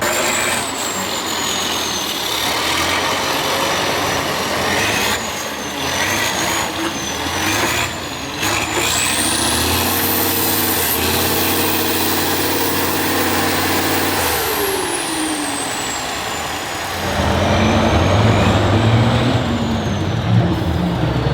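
Heavy off-road trial truck's engine working hard under load, with a high whistle that rises and falls with the revs. The engine climbs to a high, held note about ten seconds in and drops back a few seconds later, then runs louder and lower near the end.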